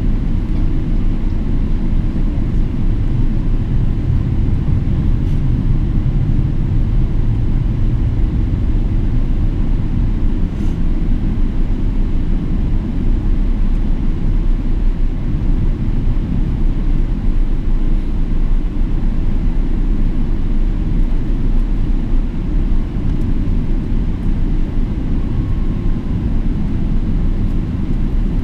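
Boeing 777-300ER with GE90 engines making a steady, even low rumble.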